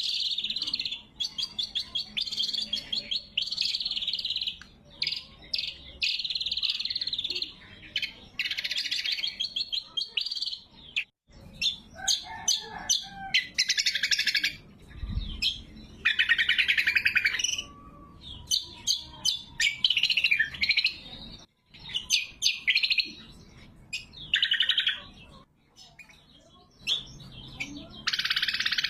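Greater green leafbird (cucak kombo) singing loud, high-pitched phrases of rapid repeated notes and trills, each phrase lasting a second or two with short pauses between them.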